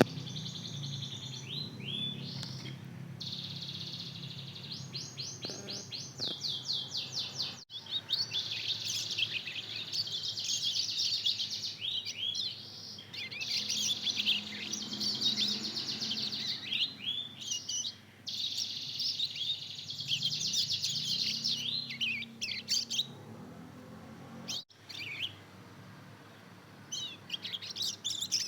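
Young mozken, a hybrid of the Mozambique (yellow-fronted) canary and the domestic canary, practising its song: high, rambling twittering phrases with fast trills of repeated notes, stopping and starting again every few seconds. This is a juvenile's early subsong, not yet a finished song.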